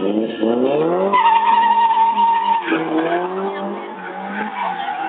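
Drift car's engine revving up, then a long, steady tire squeal for about a second and a half as the car slides with the engine held high. The squeal stops about halfway through, and the engine note dips and climbs again.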